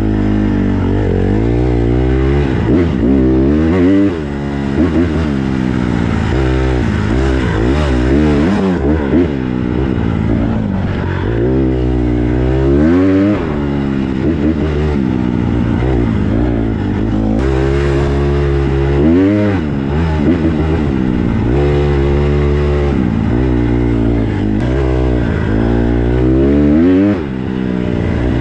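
Small four-stroke single-cylinder dirt bike engine being ridden hard on a trail, revving up and falling back again and again as the throttle is worked and the gears change. The engine drops off sharply a couple of times, about four seconds in and near the end.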